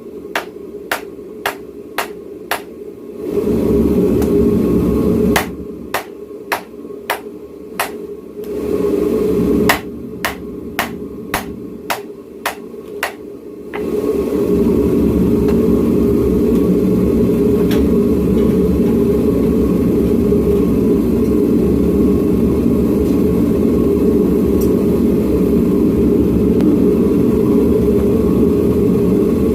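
Hand hammer striking hot steel in three quick runs of blows, about two a second, during the first half, forging out a knife blade. Between the runs and from about halfway on, the forge runs with a loud, steady rushing noise.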